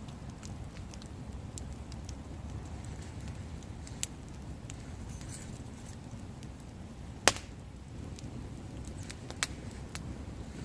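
Wood bonfire burning with a low steady rumble and scattered crackles, with a loud sharp pop about seven seconds in and smaller pops near four and nine and a half seconds.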